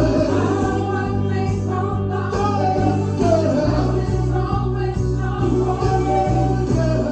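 Live gospel praise music: a choir and singers over a band with a steady beat and sustained bass.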